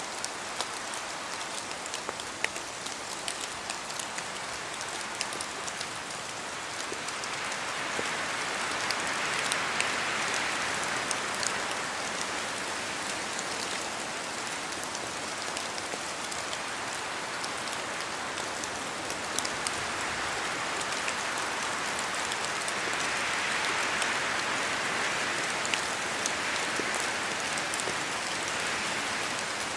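Steady rain in a forest, with many scattered drops ticking as they fall from the trees. Twice the sound slowly swells and fades again as gusts of wind pass through the leaves.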